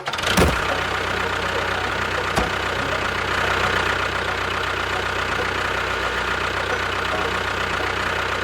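A small engine-type motor running steadily at an even idle-like pace, with a sharp knock about half a second in and a lighter click about two seconds later.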